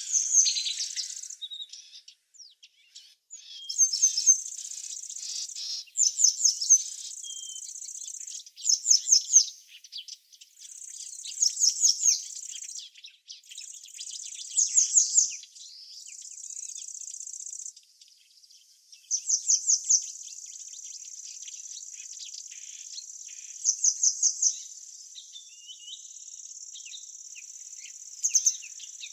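Small songbirds chirping, with quick runs of four or five sharp high notes every few seconds, over a steady high insect trill that breaks off and starts again.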